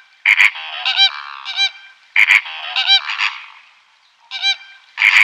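A flock of flamingos honking, call after call in overlapping clusters, with a short lull about four seconds in.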